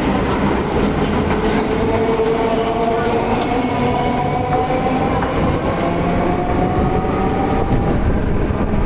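Electric multiple-unit suburban train running, heard from inside the carriage: steady rumble and rail noise with a motor whine that rises slowly in pitch as the train picks up speed, and a few light clicks in the first half.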